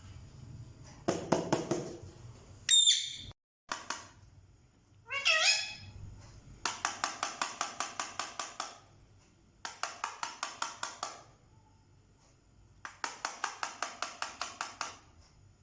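Pet parrot calling: a quick rattle of clicks, two short whistled glides, then three runs of rapid pulsed chatter at about seven notes a second.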